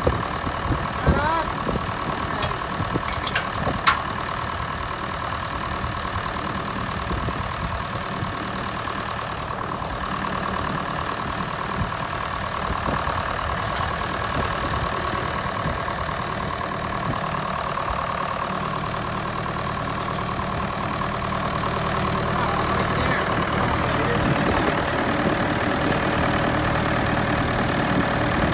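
Tractor engine running steadily at low revs, with a few sharp knocks in the first few seconds, getting a little louder about three-quarters of the way through.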